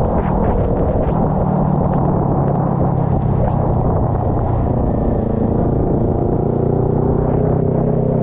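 Kawasaki Ninja 400's parallel-twin engine running steadily while riding, under constant wind and wet road noise.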